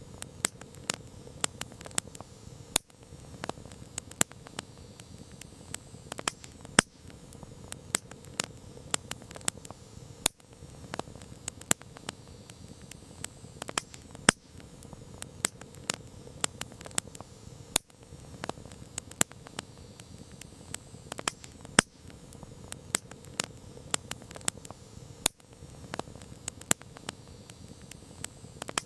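Wood campfire crackling: many sharp, irregular pops and snaps of burning wood, some loud, over a steady soft hiss of the flames.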